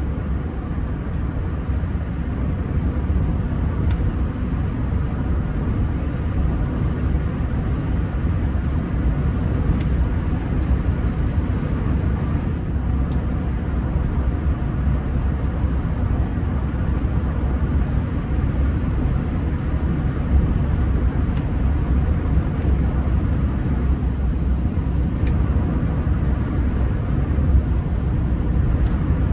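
Steady low road and engine rumble inside the cabin of a Rolls-Royce Silver Spirit III on the move, with a few faint ticks.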